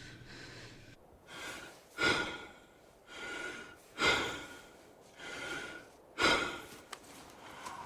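A person breathing hard in gasps: about three in-and-out breath cycles, with the loudest breaths roughly two seconds apart and a thin whistle in several of them.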